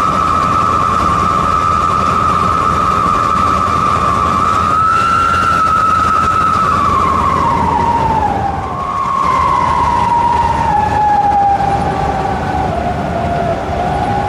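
Vehicle exhaust fitted with a 'wolf' howling whistle tip, giving a loud, high, siren-like howl over the engine's running. The pitch holds steady, slides down about halfway through, and rises again near the end as the revs change.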